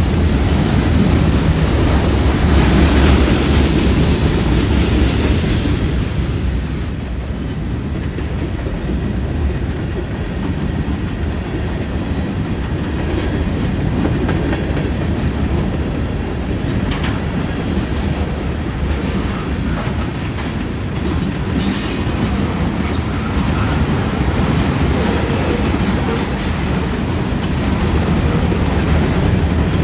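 Freight cars of a CN freight train rolling past, with a steady rumble and wheels clacking over rail joints and the junction's crossing.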